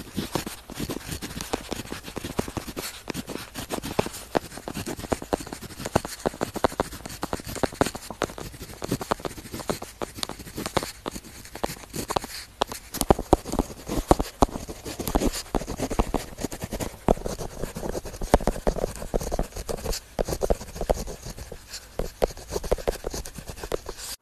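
Pen tip scratching across paper in quick, continuous writing strokes, with many small sharp ticks as the tip lands and lifts. It cuts off suddenly at the end.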